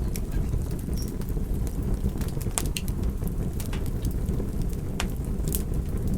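Fire crackling: irregular sharp pops and snaps, two louder ones partway through, over a steady low rumble.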